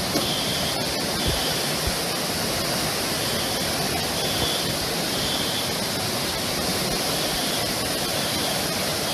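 Flash floodwater rushing steadily down a street in a torrent, mixed with heavy rain.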